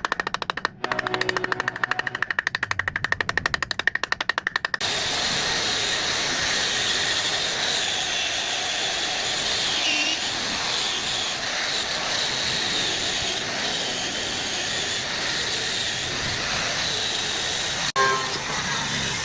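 Rapid, even rattle of a pneumatic or power tool hammering for about five seconds, then a steady hiss like compressed air or blasting, with a sharp click near the end.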